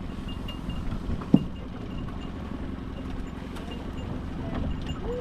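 Low steady rumble of a small boat drifting up to an iceberg, with scattered light knocks and one sharp knock about a second and a half in.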